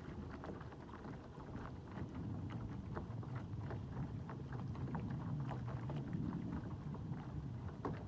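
Water splashing and lapping against the hull of a small sailboat under way, many small quick spatters over a steady low rumble of wind on the microphone.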